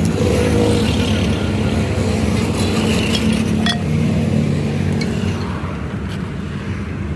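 Motor vehicle engine running steadily, with a single light metallic click about three and a half seconds in.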